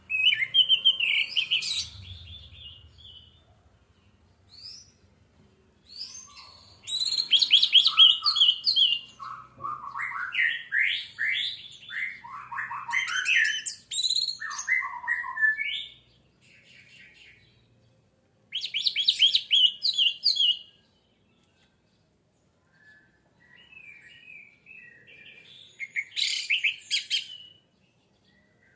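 Orange-headed thrush singing: varied phrases of whistled, slurred notes and fast rattling trills, coming in several bursts separated by short pauses.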